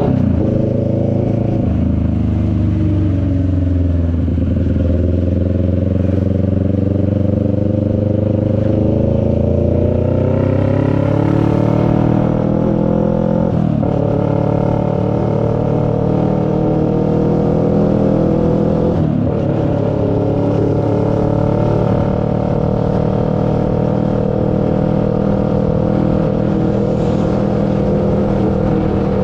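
CFMoto 400NK's parallel-twin engine on the move: its pitch falls over the first few seconds as it slows, then rises as it accelerates, dropping sharply at two upshifts about halfway through before settling to a steady cruise.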